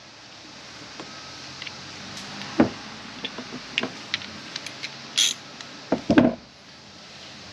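Metal frame pieces of a quarterback passing net being handled and fitted together: scattered knocks and clinks, with a sharp clink about five seconds in and the loudest knocks a second later.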